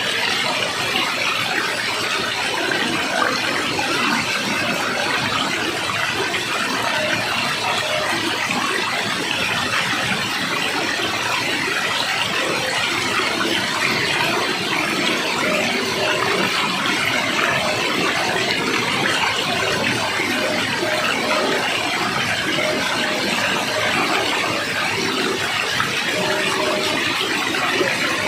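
Waterfall, water rushing and splashing in a steady, unbroken roar of noise.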